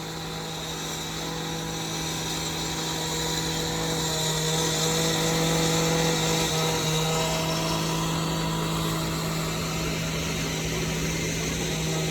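A construction machine's engine running steadily with a droning hum, growing a little louder over the first several seconds.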